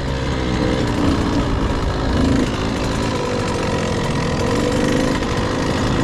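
Husqvarna TC 85 two-stroke dirt bike engine running steadily at low revs, close to the helmet-mounted microphone.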